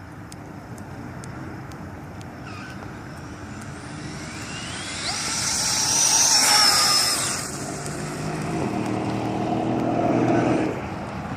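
Radio-controlled car running and passing close by, its motor whine swelling to a peak about six seconds in and swelling again near the end.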